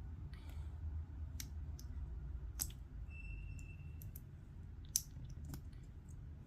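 Plastic Lego pieces clicking as they are handled and pressed together: a scattered run of small clicks, with one sharper snap about five seconds in, over a low steady hum.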